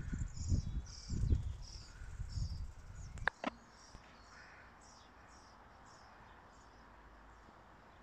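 Small bird chirping in short, high, repeated notes, about two or three a second, fading after a few seconds. A low rumble on the microphone is louder for the first three seconds, and two quick sharp sounds come just after 3 seconds.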